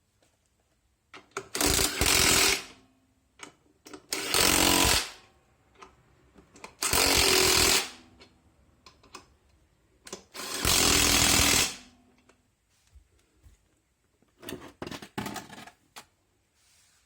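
Power impact tool run in four short bursts of about a second each, driving fasteners home. Clicks and clatter of tools come between the bursts.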